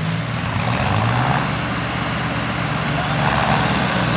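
Farm tractor's diesel engine running steadily while hauling a trolley, its pitch rising slightly about a second in.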